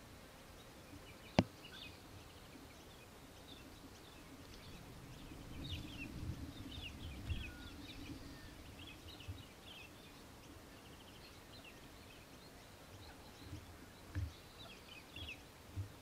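Faint high bird chirps and twitters come in scattered clusters through the middle and again near the end. A single sharp click about a second and a half in is the loudest sound, and there are a few soft low thumps.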